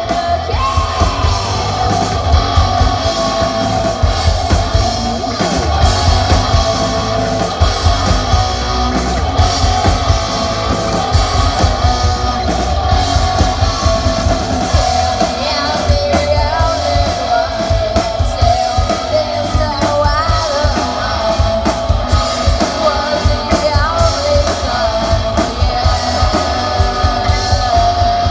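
Rock music: a singer over electric guitar and a drum kit with a steady driving beat.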